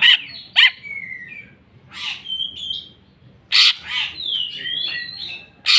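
Greater green leafbird (cucak ijo) singing a varied stream of loud sharp notes and whistled gliding phrases, with short pauses between. The song is packed with mimicked calls of other birds.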